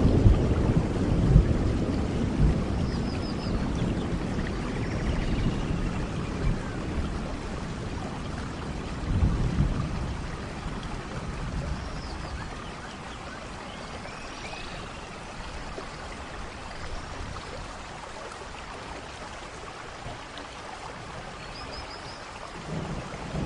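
Steady tropical rain with thunder rumbling, fading over the first few seconds, swelling again about 9 seconds in and building near the end. Birds call now and then over the rain with short high chirps and falling whistles.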